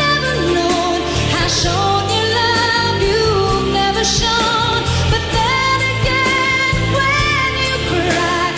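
Live pop ballad: a woman sings long, wavering held notes that glide from pitch to pitch over steady band accompaniment.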